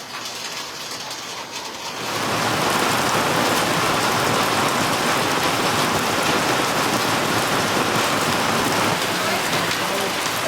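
Heavy rain pouring down steadily on surfaces, faint at first and much louder from about two seconds in.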